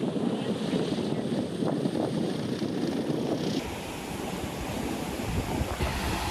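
Outdoor wind and water noise, with wind buffeting the microphone. Just over halfway through it changes suddenly to a heavier low rumble of wind on the microphone.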